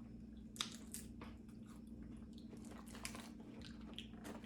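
Faint crunching of someone chewing Chitato potato chips, in scattered short crackles.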